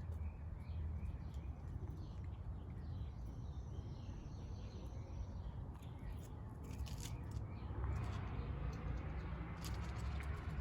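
Outdoor backyard ambience: birds chirping and calling over a steady low rumble, with a few sharp clicks in the second half.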